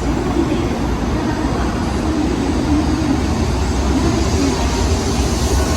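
Sanyo Shinkansen bullet train running along the platform, a steady rumble.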